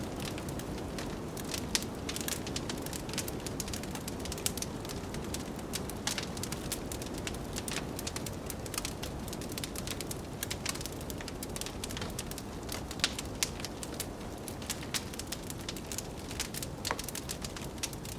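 Wood fire crackling, with frequent sharp pops and snaps, over a steady low rush of blizzard wind.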